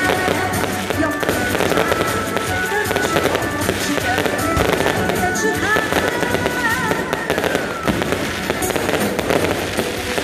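Fireworks going off continuously, a dense run of crackles and pops, with music playing alongside.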